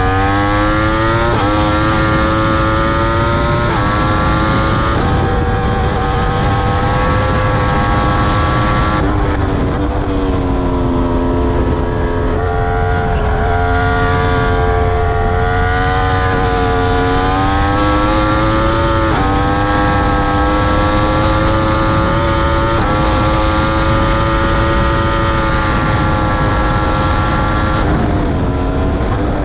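2021 Yamaha R1's crossplane inline-four through an Akrapovic full titanium exhaust with dB killer, ridden hard on track: the engine note climbs and then jumps or drops in steps as gears change, several times over, over a steady low rush of wind.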